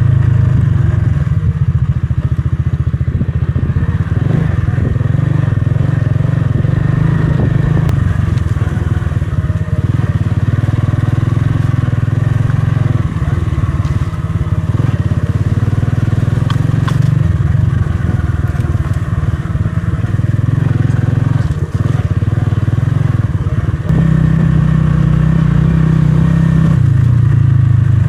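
Motorcycle engine running steadily under way, its note stepping up about three-quarters of the way through.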